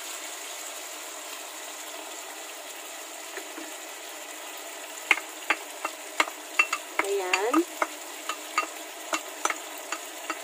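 Pork and garlic sizzling steadily in a frying pan. From about five seconds in, a wooden spoon scrapes and taps against a ceramic bowl, with one short squeak, as the last of the oyster sauce is scraped into the pan.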